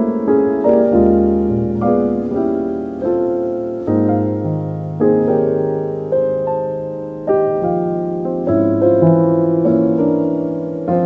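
Slow solo piano music: chords over low bass notes, each struck and left to fade, with a new chord about once a second.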